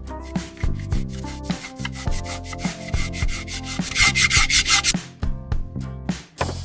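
Repeated sanding strokes on a surface, with a fast, loud run of short strokes about four seconds in.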